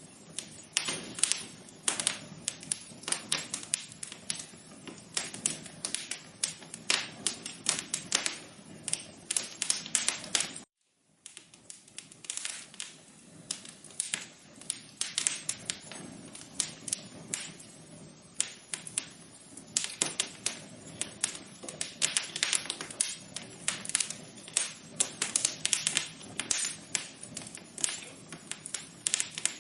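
Wood fire crackling in a fireplace: a steady stream of irregular sharp pops and snaps over a soft hiss. The sound cuts out completely for a moment about a third of the way through, then carries on.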